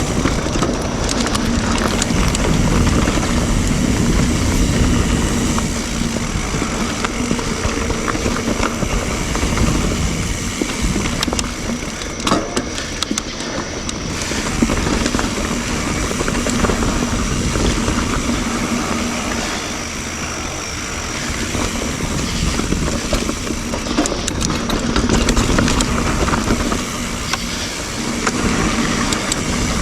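Full-suspension mountain bike ridden fast on dirt singletrack, heard from an on-bike action camera: knobby tyres rolling over dirt and roots, wind rumbling on the microphone, and frequent sharp rattles and knocks from the bike.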